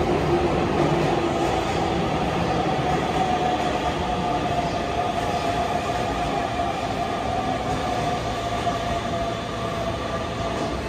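Electric train running in an underground station: a steady rumble of wheels on rail with a held whine, slowly fading.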